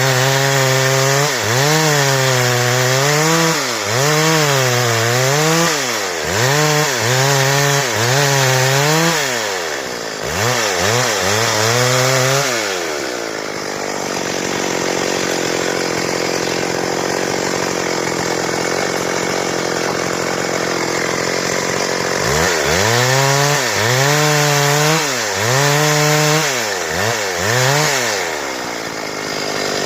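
Stihl chainsaw revving up and down in quick repeated surges as it cuts wood. In the middle it drops to a steadier, lower run for about nine seconds, then surges and cuts again.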